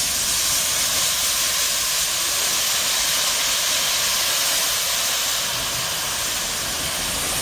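Steady, loud hiss of steam escaping from the 1948-built C61 2 steam locomotive.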